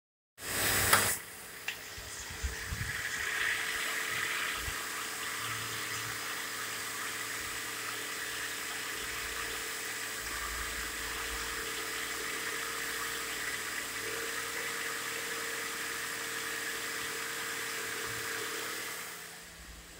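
Holden VE Commodore's 3.6-litre V6 petrol engine idling steadily, heard close at the open engine bay. A short, loud knock comes about a second in, and the sound drops away just before the end.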